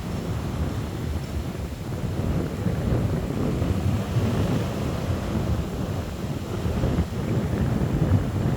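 Wind buffeting the microphone in gusts, with the sea's waves washing underneath.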